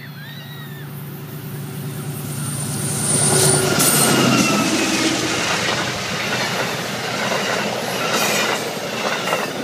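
Amtrak passenger train passing close at speed. A rushing rumble builds to its loudest about four seconds in and then eases slightly as the cars go by, over a steady low hum that fades out around the loudest point.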